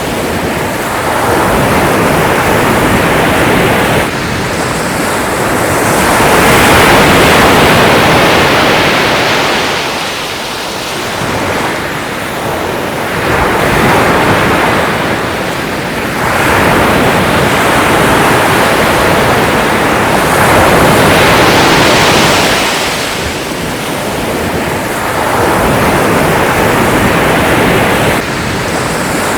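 Ocean surf: waves breaking in a continuous rush that swells and eases every few seconds.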